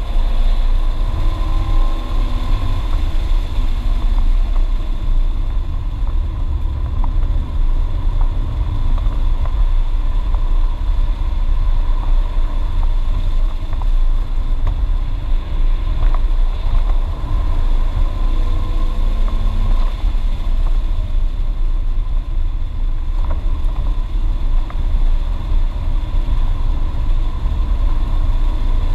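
BMW E36 328is's straight-six engine and the road noise, heard from inside the cabin while the car laps at speed: a steady heavy low rumble, with the engine note rising and falling gently.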